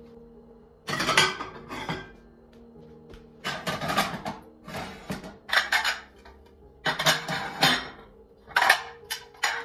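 Dishes and cutlery clattering in a run of short bursts that come more often towards the end, over soft background music with held low notes.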